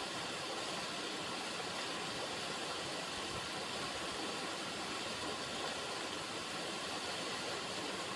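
River water running in a steady, even rush with no changes.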